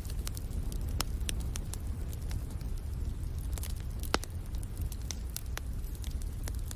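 Wood fire crackling and popping in a fireplace, irregular sharp snaps over a steady low rumble, with one louder pop about four seconds in.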